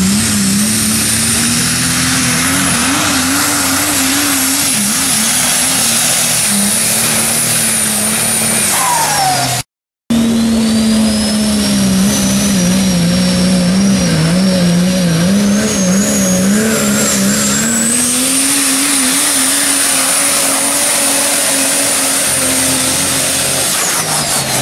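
Super stock diesel pickup trucks pulling at full throttle, each engine running hard with revs wavering under load beneath a high turbocharger whistle. There are two runs with a sudden cut between them about ten seconds in. The whistle climbs during the second run, and each run ends with the engine note falling as the throttle comes off.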